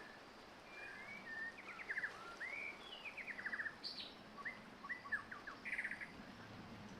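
A wild songbird singing a quick, varied phrase of chirps, slurred whistles and short rapid trills. It starts about a second in and stops a second before the end.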